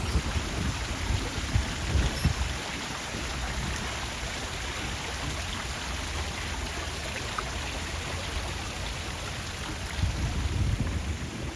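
Steady rush of running water, with low rumbling swells near the start and again near the end.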